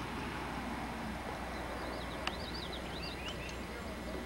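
A bird singing a quick run of short high chirps about two seconds in, over steady outdoor background noise, with a single sharp click in the middle.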